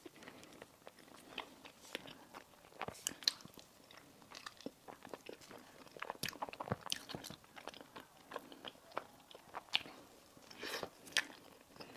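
Close-miked eating: biting into and chewing crisp pastry or sweets, a run of irregular sharp crunches and crackles.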